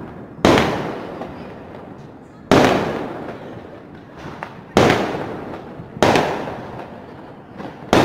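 Aerial firework shells bursting: five loud bangs, one every one to two seconds, each dying away in a long rumbling echo.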